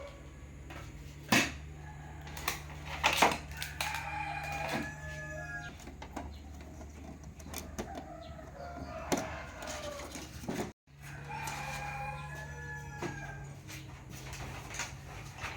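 A rooster crowing twice, about four seconds in and again near twelve seconds, over a steady low electrical hum and scattered sharp clicks of tools being handled.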